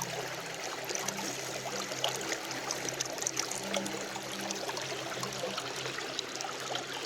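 Creek water running and trickling over rocks, a steady rushing with small splashes.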